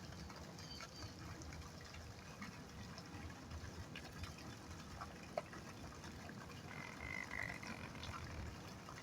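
Faint outdoor ambience: a low, uneven rumble with scattered small ticks, one sharper click about five seconds in, and a faint high-pitched call lasting about a second and a half near the end.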